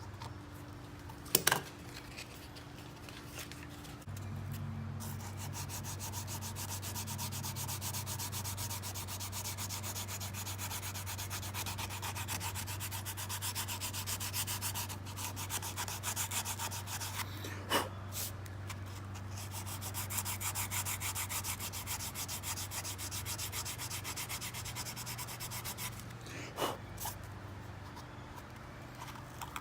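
Power sanding of rosewood: a motor starts about four seconds in and runs steadily under a fine rasping of abrasive on wood. A few sharp knocks stand out, one near the start, one midway and one near the end.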